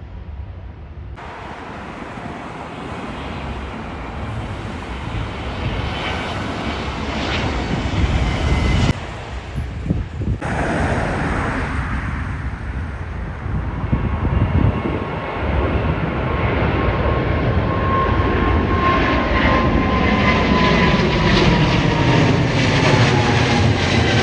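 Jet airliner engines passing close by, growing steadily louder, with a whine that falls in pitch in the second half.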